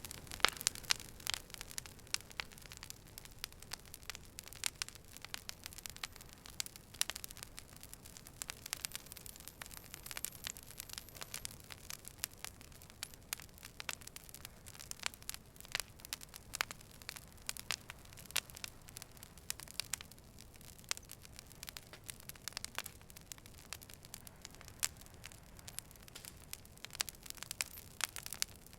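Fire burning with many sharp, irregular crackles and pops over a soft steady hiss.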